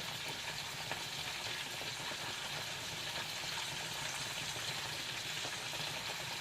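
Food sizzling in a hot pan: a steady, even hiss with fine crackle.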